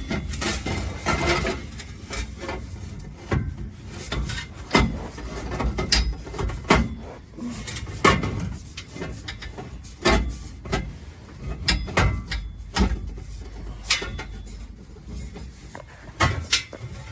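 Irregular metallic clanks, knocks and scrapes as a 4-inch stainless steel exhaust pipe section is handled and worked into its hangers, with several sharp knocks spread through.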